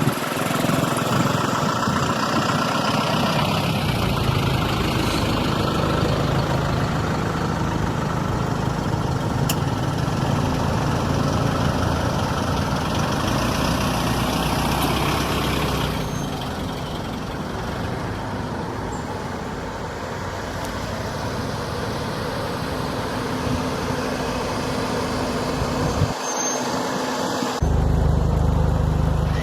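Motor vehicle engine running steadily at low revs, changing abruptly a few times.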